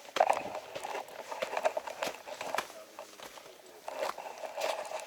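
Hiker's footsteps crunching on snow, about two steps a second.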